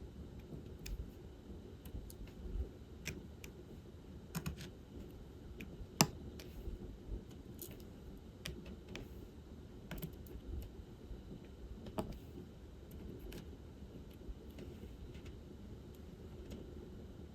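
Light plastic clicks and taps of diamond painting: an applicator pen picking up resin drills and pressing them onto the sticky canvas, at an irregular pace with one sharper tap about six seconds in.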